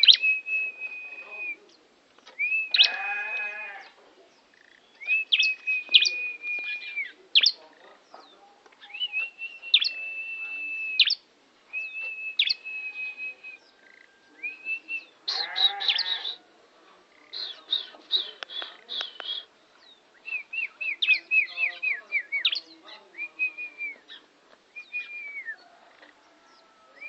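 Bar-winged prinia (ciblek) singing in long bouts: repeated sustained high whistled notes broken by sharp upward flicks, with a buzzy, bleating phrase about three seconds in and again around sixteen seconds.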